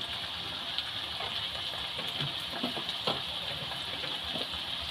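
Sliced onions and spice pastes sizzling steadily in hot oil in a kadai, with a few faint ticks. The onions are frying with freshly added turmeric.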